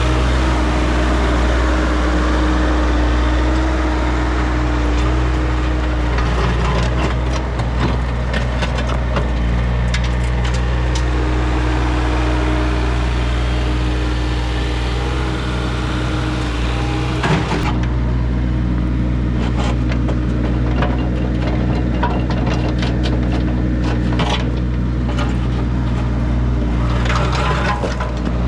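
Mini excavator engine running steadily, with irregular cracks and crunches of broken driveway pavement and debris being dug up, one sharper crack about two-thirds of the way through.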